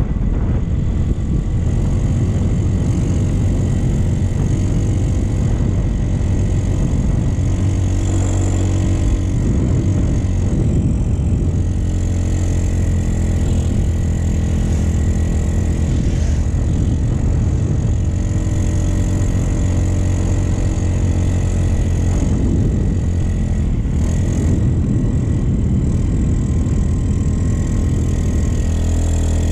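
Motorcycle engine running while riding, steady and loud, with its pitch drifting up and down as the throttle changes.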